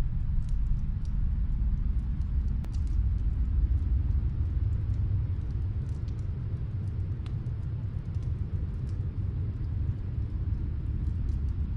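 Steady low rumble of snowstorm wind, with faint, scattered crackles of a wood fire.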